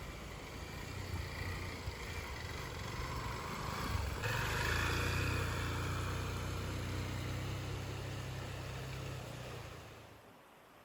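A vehicle's engine running while driving an off-road track, growing louder about four seconds in and fading out near the end.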